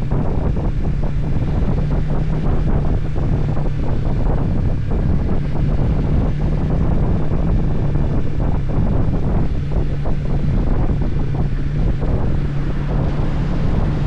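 Heavy wind buffeting on the microphone over a steady low engine drone, as from a camera riding on a moving motorcycle.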